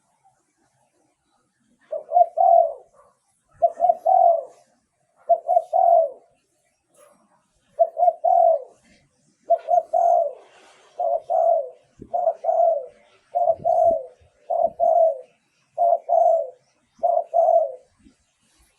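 Spotted dove cooing: about a dozen short phrases of two or three low coos each, starting about two seconds in and repeating every second or so with short gaps.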